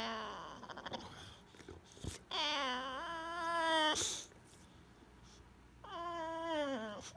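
English bulldog whining in three drawn-out, wavering cries: one tailing off at the start, a longer one of about two seconds midway, and a shorter one that drops in pitch near the end.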